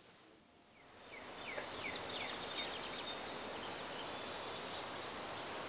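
Outdoor nature ambience of insects with short, quick chirps fades in about a second in, then holds steady: a high, even insect buzz under the chirps.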